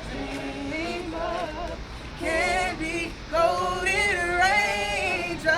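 Vocal group singing a cappella, long held notes that glide in pitch, with no words picked out, as the song's opening.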